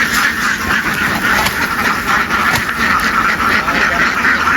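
A large flock of ducks quacking constantly, many voices overlapping, with a truck engine running underneath.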